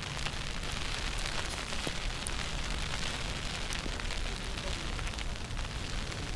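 Snowstorm street noise: wind buffeting the microphone as an uneven low rumble over a steady hiss, with faint scattered ticks.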